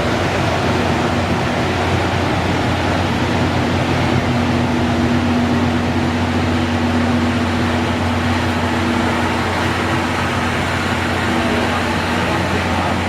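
A train standing at a station platform, its onboard equipment giving off a steady hum with a constant low drone.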